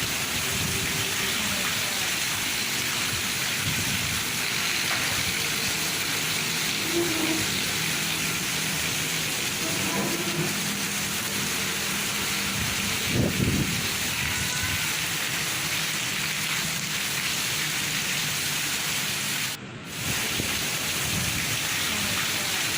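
Steady heavy rainfall, an even hiss of rain, with a short low rumble about thirteen seconds in. The sound dips briefly about twenty seconds in.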